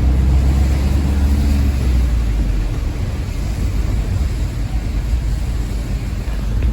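Low rumble of a road vehicle, strongest for the first two seconds and then easing into a steadier background rumble.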